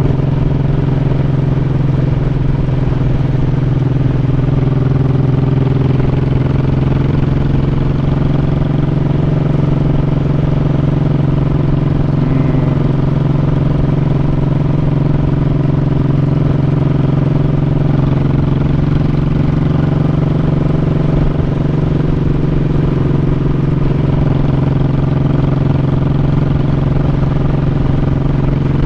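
Honda Shadow 1100's V-twin engine running at a steady, unchanging pitch, with no revving.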